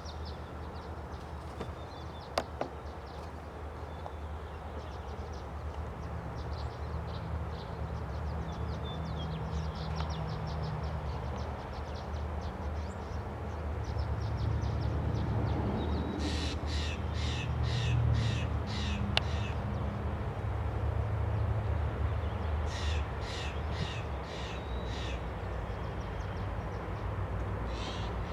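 Diesel freight locomotive rumbling low and steady, slowly growing louder. Over it a bird gives two runs of about seven quick, harsh calls, the first about two-thirds of the way in and the second near the end.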